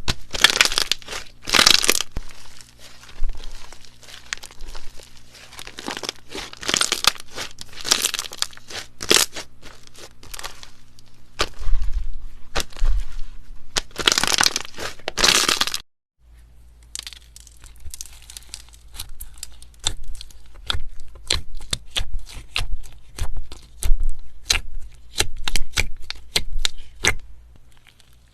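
Slime being squeezed, stretched and pulled apart, with loud crackling and tearing sounds. Near the middle it cuts off briefly, then changes to a run of sharp, separate pops and clicks.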